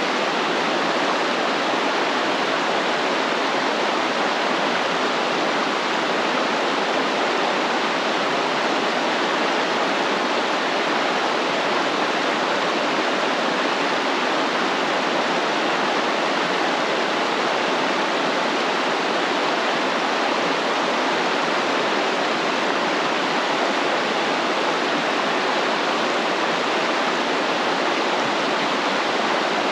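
Stream water flowing and rushing steadily, an even, unbroken watery hiss.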